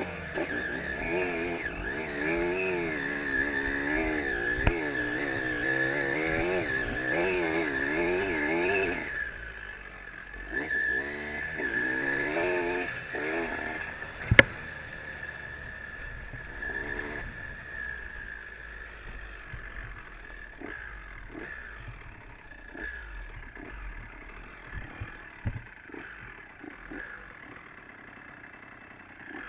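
Trail motorcycle engine revving up and down over and over for about nine seconds, then running quieter with a few short revs. A single sharp knock comes about halfway through and is the loudest sound.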